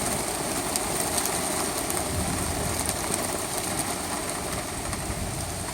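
Heavy rain pouring down in a steady hiss, with the patter of drops, slowly easing off.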